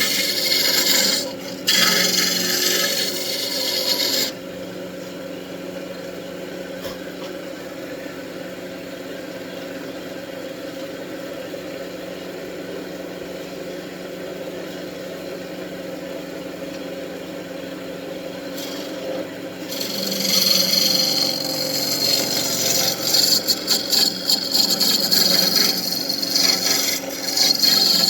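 Wood lathe running while a turning tool cuts the spinning wooden wand blank with a loud hiss for the first four seconds. Then comes a long stretch of only the lathe's steady motor hum, and the cutting resumes in short, broken strokes over the last eight seconds.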